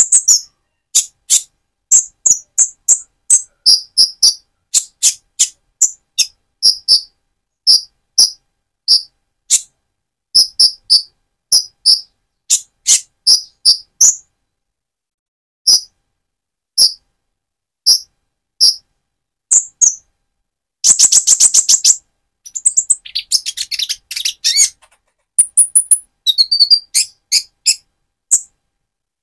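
Purple-throated sunbird, a young bird still in mottled plumage, calling: a long series of short, sharp, high-pitched chips, one to three a second, that breaks into rapid twittering song about two-thirds of the way through.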